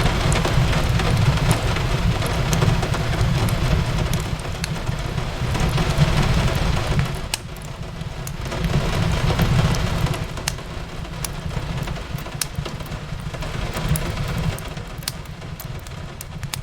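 Steady rain falling on a window, mixed with a fireplace crackling in scattered sharp pops and clicks. A low rumble under it swells and eases every few seconds.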